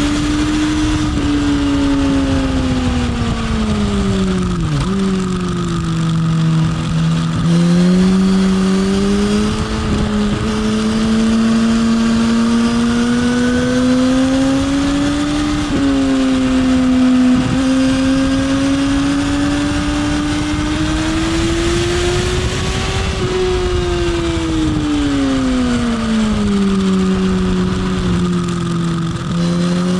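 Motorcycle engine heard from onboard at speed, its note climbing slowly under throttle and falling away under braking, with sudden steps in pitch at the gear changes, over a steady rush of wind.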